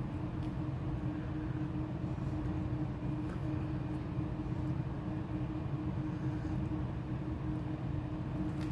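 Steady low mechanical drone with a constant hum, like a running engine or motor.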